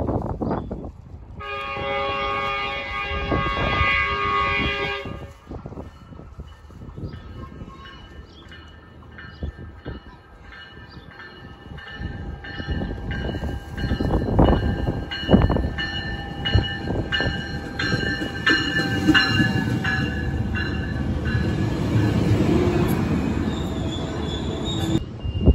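Metrolink commuter train blowing one long horn blast about two seconds in. It then rumbles in louder and louder, with clicking and a steady high wheel squeal, as it pulls alongside the platform and its double-deck cars roll past.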